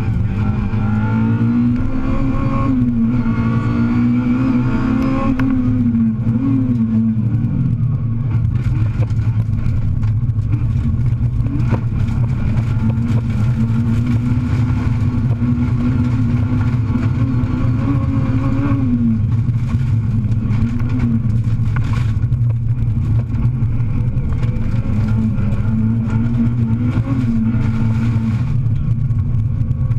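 Rally car engine heard from inside the cabin, driven hard: the revs climb, hold high and drop back several times through the stretch. A few sharp clicks cut in over the engine.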